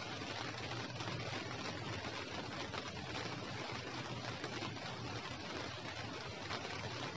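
Light rain falling steadily: an even hiss of many small drops, with a low steady rumble underneath.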